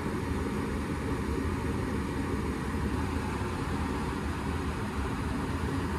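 Goodman gas furnace running with its blower going, a steady low mechanical hum. The blower is shaking hard in its housing, worse on one side.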